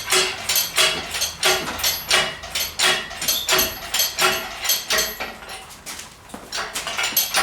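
Metal hand tools working on an engine: a run of quick metallic clicks and clinks, about three to four a second, with a short pause near the end.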